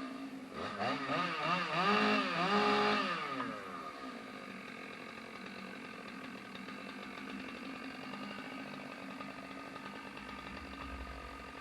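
Gas chainsaw revved up and down several times, then dropping back to a steady lower running speed.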